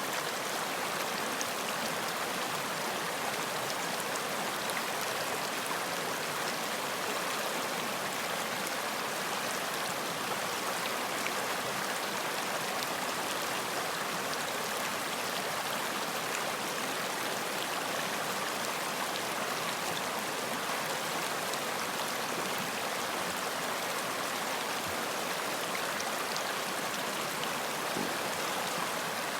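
Running water from a stream or brook, a steady even rush of flowing water with faint small splashes throughout.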